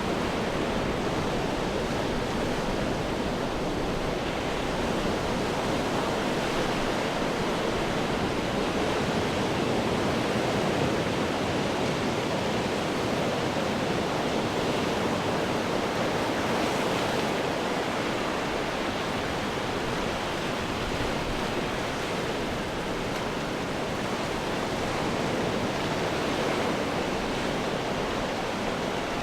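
Ocean waves breaking on rocks, a steady churning wash of surf with gentle swells in loudness and no single sharp crash standing out.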